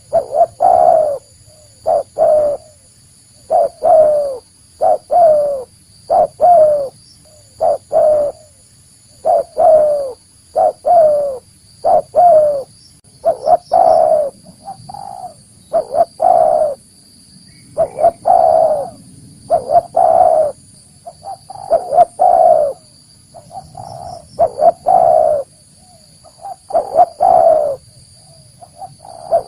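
Spotted dove cooing over and over, in phrases of short, throaty notes with brief pauses between. This is the natural call used as a lure to draw wild spotted doves in. Faint steady high-pitched tones run underneath.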